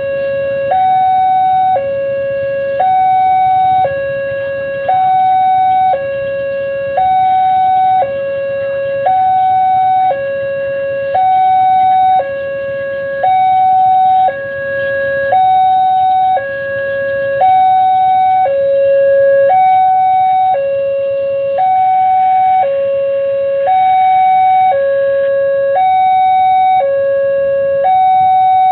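Railway level-crossing warning alarm sounding continuously: two electronic tones, a lower and a higher, alternating with each held for about a second.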